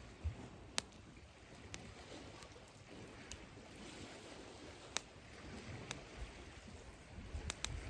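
Wood campfire crackling, with about seven scattered sharp pops, over the steady wash of sea waves on the shore.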